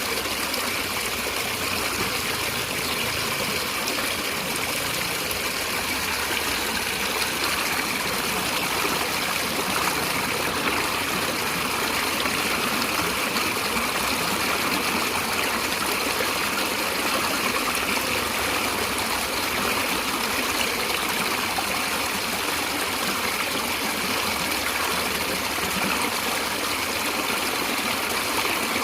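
Stream water flowing and trickling steadily over rocks, a continuous even rush of water.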